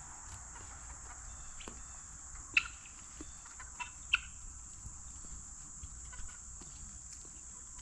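A steady high-pitched insect chorus, with a few short calls from the poultry below. The two loudest calls come about two and a half and four seconds in.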